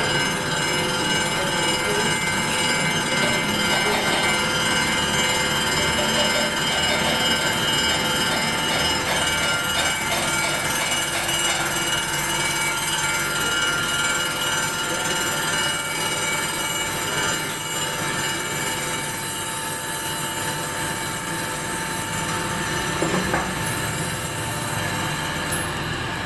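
Crankshaft polishing machine running: a steady metallic whine made of many held high tones over a grinding noise, with little change.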